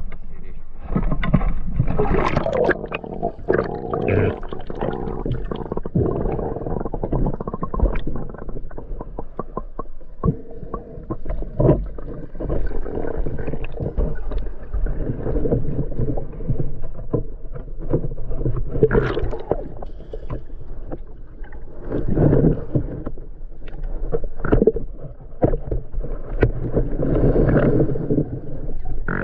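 Water sloshing and gurgling close around the microphone, with scattered knocks and splashes, as a spearfisher swims at the surface.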